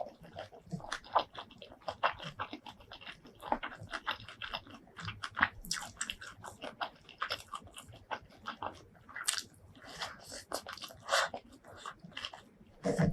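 Close-miked eating sounds: chewing and biting, with crunches and a dense run of irregular mouth clicks and smacks.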